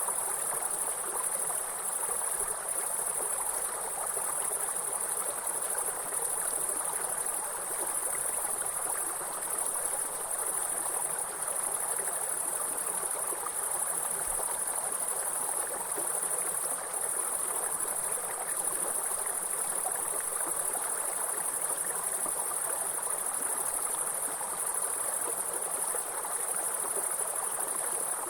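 A steady, high-pitched insect trilling, grasshoppers or crickets in chorus, over the even rush of a flowing water stream.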